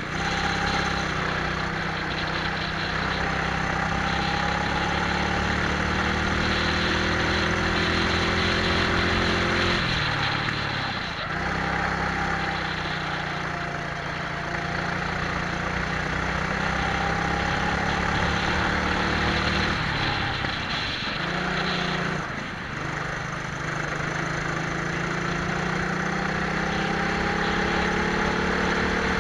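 Twin-engine Prokart's engines heard onboard at speed, rising steadily in pitch as the kart accelerates and dropping sharply twice when the driver lifts off for corners. A steady rush of wind runs underneath.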